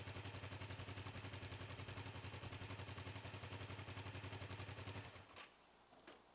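Stock exhaust of a 2008 Kawasaki Ninja 500R's parallel-twin engine idling with a steady, even pulse, then the engine cuts off about five seconds in. Two short clicks follow.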